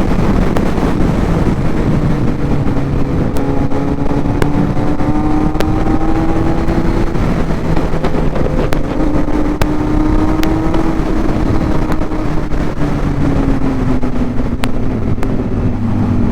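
Motorcycle engine running at a steady cruise, its pitch drifting slowly up and down, with rushing wind noise and a few faint clicks.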